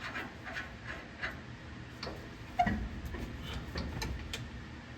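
Ratchet wrench clicking, about four clicks a second, as bolts on the truck's rear suspension are turned to set the pinion angle, with one louder metallic clunk just over halfway in.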